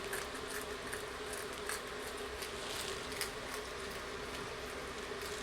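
Water boiling steadily, a constant hiss with a faint steady hum, with scattered faint small crackles of eggshell as a hard-boiled egg is peeled by hand.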